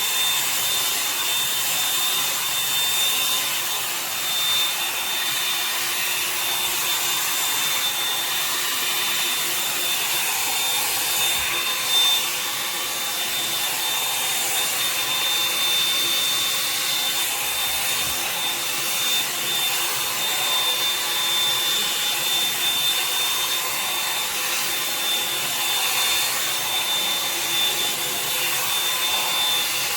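Revlon One-Step hot-air brush (hair dryer brush) blowing steadily on its fan: an even rush of air with a constant high whine from the motor.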